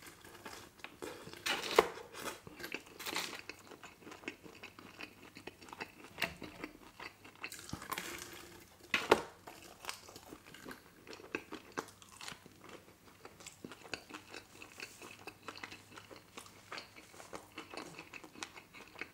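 Close-miked chewing of pepperoni pizza: a bite, then a steady run of wet mouth clicks and chewing, with a few louder crunches about two and nine seconds in.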